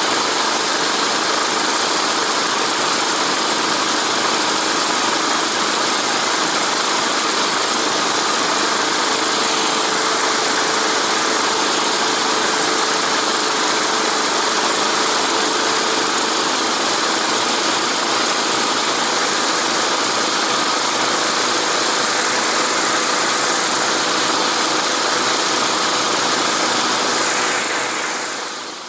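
A vehicle engine running steadily under a strong, even hiss, with a faint constant hum; the sound fades out near the end.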